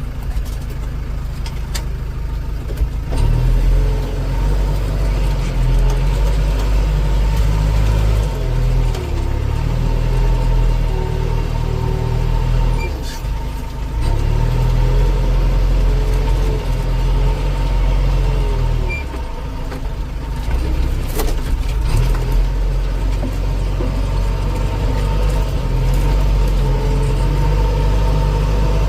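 Heavy diesel engine running under changing load, its low drone swelling and easing several times, with brief dips about halfway and two-thirds of the way through.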